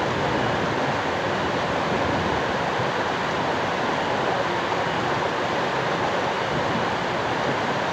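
Steady rush of running water at a sulphur hot-spring bath, even and unbroken.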